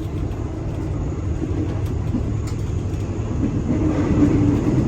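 Passenger train running, a steady low rumble heard from inside a sleeper compartment, growing a little louder near the end with a faint hum joining in.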